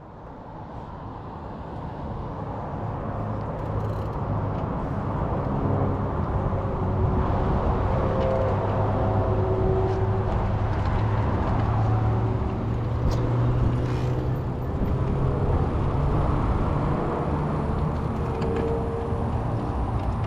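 Road traffic with a motor vehicle's engine hum, heard from a bicycle on the road. It fades in over the first few seconds and then holds steady.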